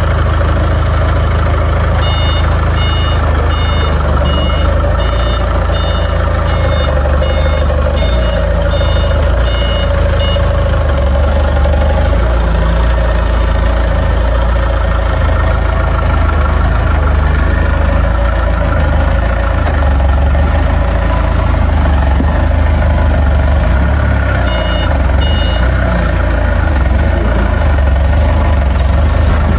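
Heavy vehicle engine running steadily, with a reversing alarm beeping about eleven times at just over one beep a second in the first third and twice more near the end.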